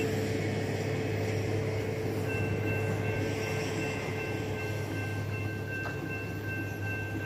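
Freight train rolling through a road grade crossing, its rumble slowly fading, with the crossing's warning bell ringing in steady high tones that drop out briefly near the start as the gates lift.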